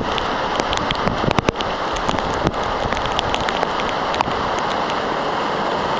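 Heavy wind-driven hurricane rain, a steady dense rush with raindrops striking the camera as many sharp irregular ticks.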